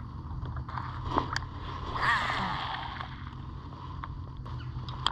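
A small boat motor running at a steady low hum, with a brief swelling whoosh about two seconds in and a few light clicks.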